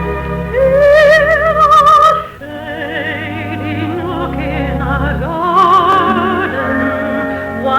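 Lush orchestral music with a sweeping melody sung or played with strong vibrato. It swells loudest in the first two seconds, dips briefly, then carries on. This is the introduction to a 1950s musical-theatre song.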